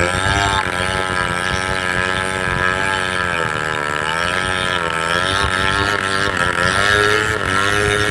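Two-stroke chainsaw running at high revs while cutting through a tree trunk. Its engine pitch sags and recovers slowly as the chain loads up in the wood.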